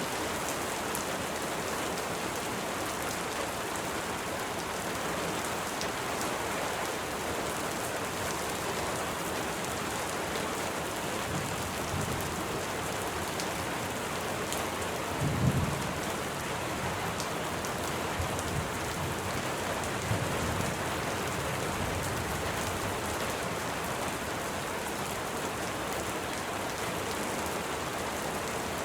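Steady heavy rain falling, with low rolls of thunder from a little before halfway through; the loudest rumble comes just past the middle, with fainter ones after it.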